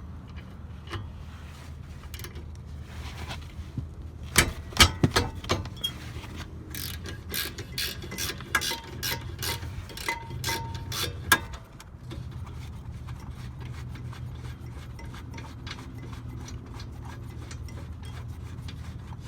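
Hand ratchet clicking in quick, uneven runs for about seven seconds, starting a few seconds in, as bolts on the front brake caliper are turned, over a steady low hum.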